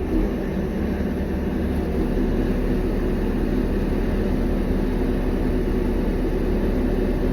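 A vehicle's engine running with a steady low drone that does not change.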